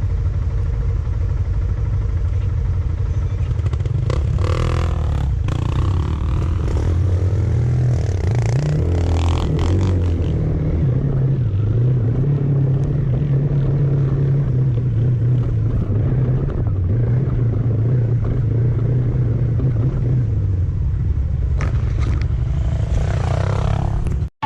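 A vehicle engine running with a steady low rumble, its pitch wavering up and down as it drives, with a couple of brief swells of noise early on.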